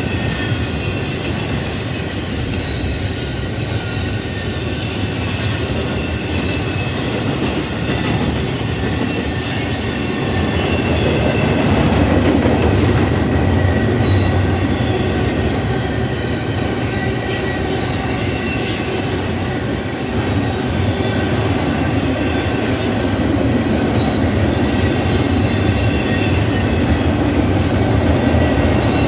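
Double-stack intermodal freight cars rolling past on steel wheels, a steady rumble of wheels on rail with high-pitched wheel squeal on and off above it. It grows louder about a third of the way in.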